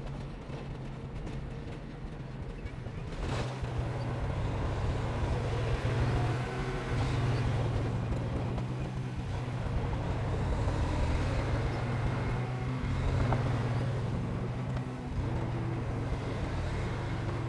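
Heavy construction machine's diesel engine running steadily, getting louder about three seconds in.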